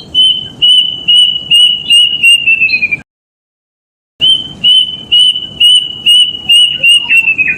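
Kedasih (plaintive cuckoo) singing: two phrases of repeated clear whistled notes, about three a second, each phrase sliding lower at its end, with a pause of about a second between them.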